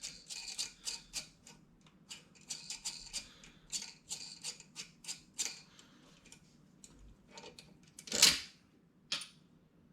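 Irregular light metallic clicks and taps of exhaust hardware and hand tools being worked on a motorcycle, with one louder brief scrape a little after eight seconds.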